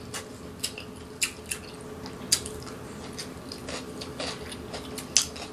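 Close-miked chewing of cooked vegetables: irregular wet smacks and crunchy clicks of a mouth eating broccoli and cabbage, over a faint steady hum.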